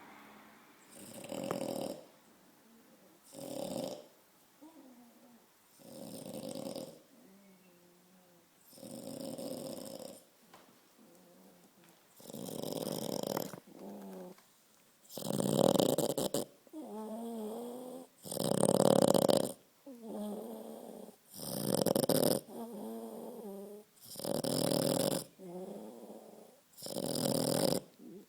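Dog snoring in its sleep: a loud snore about every three seconds, with softer, wavering breath sounds between them.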